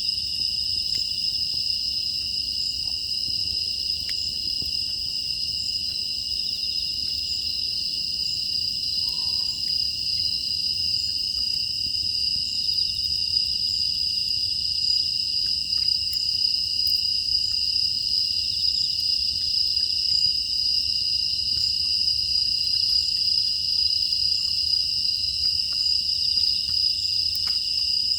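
Steady chorus of crickets and other grass insects trilling without a break, with faint scattered crackles of a wood fire.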